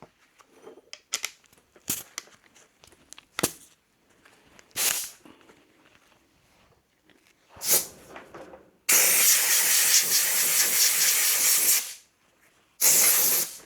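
Compressed-air blow gun blowing through a motorcycle's reusable oil filter element to clear out the cleaning solvent: a few light clicks and short puffs, then a steady blast of about three seconds and a shorter one near the end.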